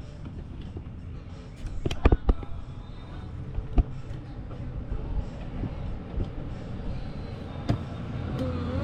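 A few sharp, separate knocks and clanks over a steady low rumble. The rumble grows louder near the end.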